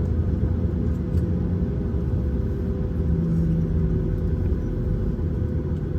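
Cabin noise inside a Boeing 737-900ER airliner: a steady low rumble with a faint steady hum above it.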